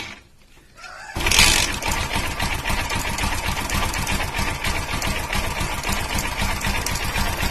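Bajaj Pulsar 135 LS single-cylinder four-valve engine idling with a fast, light, even valve-train ticking. The valve clearances have just been set and the timing chain tightened, and only a slight valve tick remains. The sound drops out briefly at the start and resumes about a second in.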